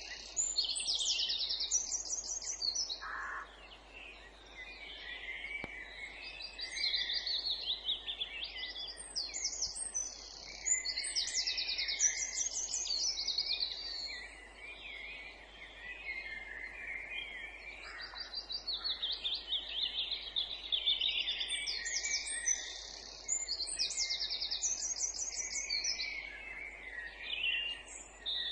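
Several songbirds singing together in a woodland dawn-chorus style, with high-pitched whistled phrases and fast trills overlapping. A similar burst of song comes round about every ten seconds, over a faint steady background hiss.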